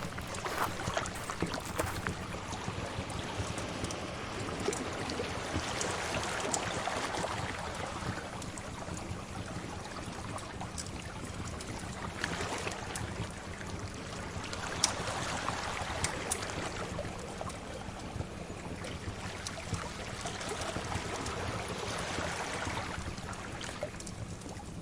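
Sea waves washing in and drawing back in slow swells several seconds apart, with scattered sharp crackles and pops of a wood fire.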